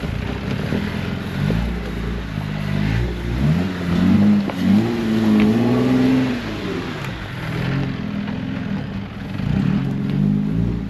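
Off-road 4x4's engine revving under load: it runs low at first, climbs in pitch about three and a half seconds in, holds high for a couple of seconds, then drops back.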